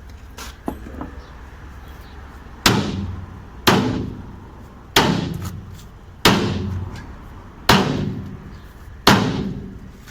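A sledgehammer striking a bent steel yacht rudder six times, about once every second or so, each blow ringing on briefly; the blows are straightening a bend in the rudder blade.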